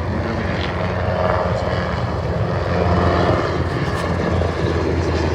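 Military helicopters flying over, a steady drone of rotors and turbine engines that swells slightly in the middle.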